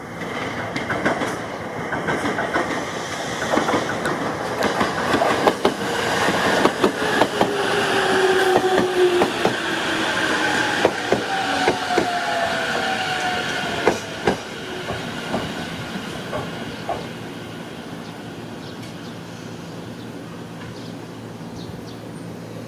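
Hachikō Line train running past on the rails, its wheels clicking over rail joints, with a tone that falls slowly in pitch as it goes by. It is loudest about halfway through, then fades to a steady hum.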